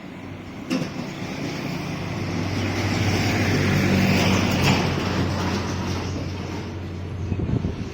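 A vehicle passing by: a steady low engine hum and noise that swell to a peak about four seconds in and then fade, with a sharp knock near the start.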